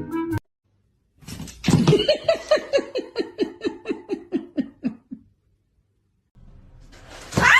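A person laughing in a long run of quick "ha" pulses, about four a second, the pitch sinking as the laugh runs out. Near the end comes a short, loud, high cry that sweeps up and down.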